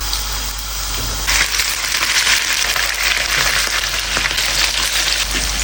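Salmon sizzling in a hot frying pan; the sizzle grows louder and denser about a second in.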